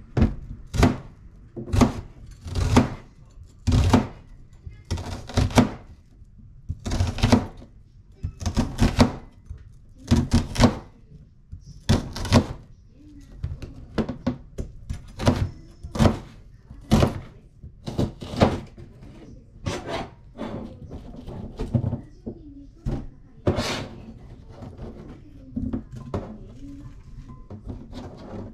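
Knife chopping vegetables on a cutting board: sharp, irregular strokes about one or two a second, some in quick pairs.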